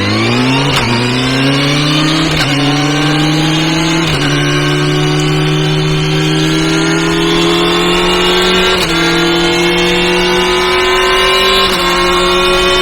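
Kawasaki Ninja ZX-6R's inline-four engine pulling hard under acceleration, its pitch rising sharply at first and then climbing more slowly, with about five short breaks where the gears are shifted.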